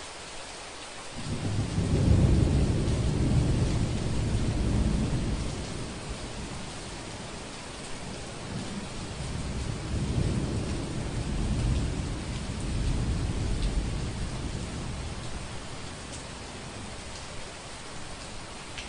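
Steady rain falling, with two long, low rolls of thunder. The first rumbles in about a second in and fades over several seconds; the second swells about halfway through and dies away.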